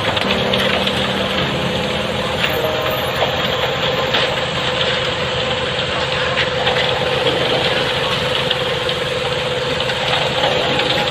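Engine of concrete-paving machinery running steadily, with a constant hum over dense mechanical noise.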